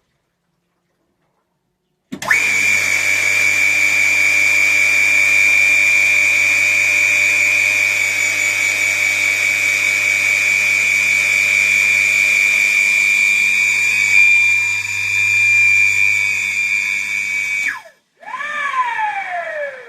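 ESPA Silen 1 hp pool filter pump motor running with a steady high whine over a low hum: the noise its owner is complaining about. It cuts off abruptly near the end, and a short whine falls in pitch just after.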